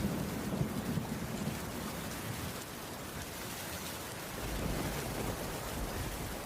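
Heavy rain falling steadily. Low thunder rumbles through the first second or so and again from about four and a half seconds in.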